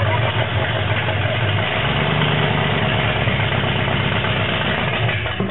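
A freshly rebuilt old truck engine runs at idle with a steady, deep low rumble, soon after its first start. About two seconds in, its note steps slightly higher.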